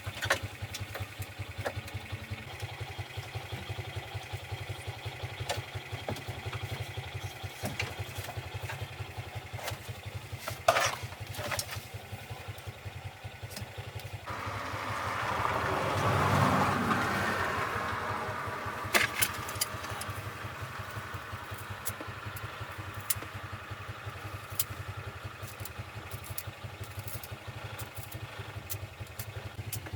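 An engine idling with an even, rapid beat, swelling louder for a few seconds around the middle. A few sharp knocks are heard over it.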